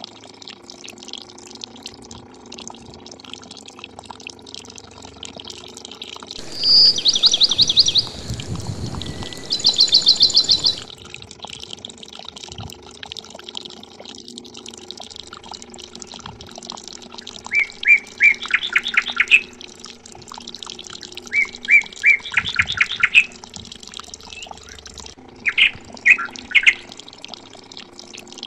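Birds chirping in several bursts of rapid trilled calls, the loudest about 7 and 10 seconds in, shorter runs near 18, 22 and 26 seconds, over a steady faint trickle of water pouring from a miniature pump's outlet pipe into a channel.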